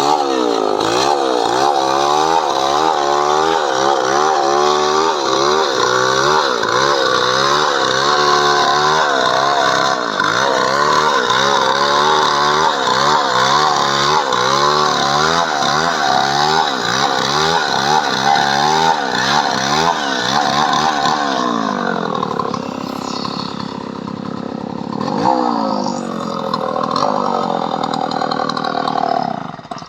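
Chainsaw running under load, cutting coconut wood lengthwise into boards, its pitch wavering up and down as the cut goes. About two-thirds of the way in, the engine note drops and changes, then rises again.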